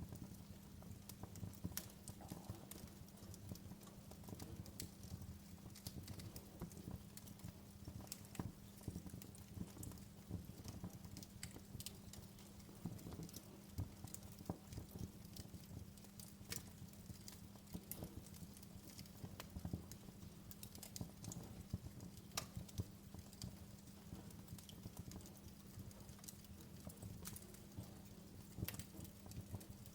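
Wood fire in a fireplace crackling, with irregular sharp snaps and pops scattered throughout over a low steady hum.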